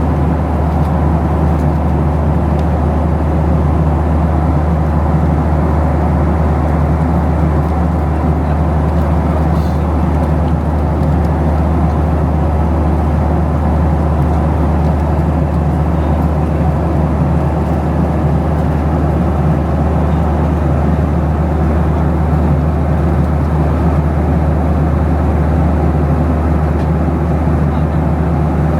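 Steady cabin drone of a Boeing 737-700 in flight, a low hum of its CFM56 jet engines mixed with airflow rush over the fuselage.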